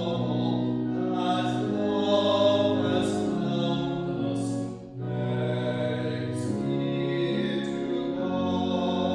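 Sacred vocal music: singing in long held notes that move from pitch to pitch, with a brief break about five seconds in.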